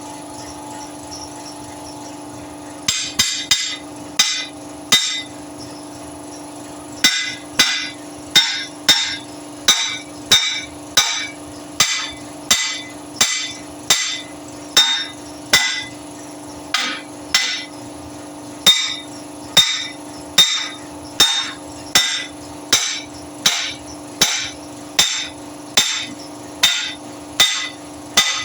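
Hammer blows struck at a steady pace, each with a brief ringing tone. A short run of strikes comes a few seconds in, then steady hammering about every 0.7 s, over a faint steady hum.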